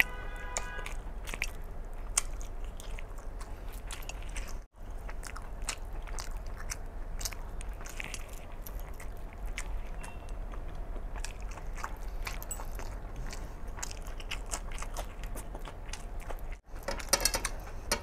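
Close-miked, mouth-open chewing of mutton curry and rice eaten by hand, full of wet smacking clicks. Near the end comes a louder crackly burst as a piece of meat is torn apart.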